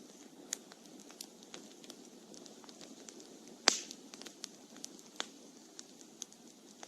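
Burning firewood in a campfire crackling: scattered sharp pops over a steady low rush, with one loud pop about three and a half seconds in followed by a brief hiss.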